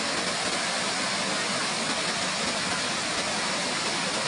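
Bou Sra Waterfall pouring: a steady, even rush of falling water with no breaks.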